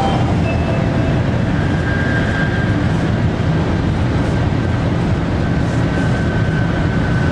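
Interior running noise of a 500 Series Shinkansen, heard inside the car's vestibule: a steady loud rumble and rush from the moving train, with a faint steady high tone above it.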